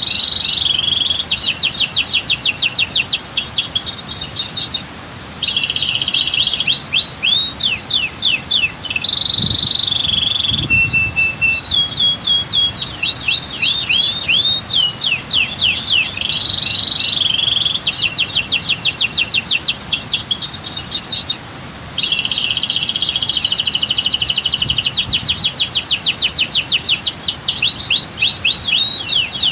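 Domestic canary singing a long, continuous song of fast repeated sweeping notes and steady rolling trills, breaking off briefly about 5 and 22 seconds in.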